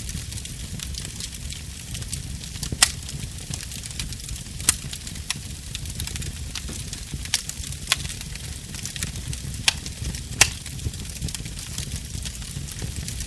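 Fire burning in a fireplace: a steady low rumble with fine crackling, broken by about seven sharp pops, the loudest near the end.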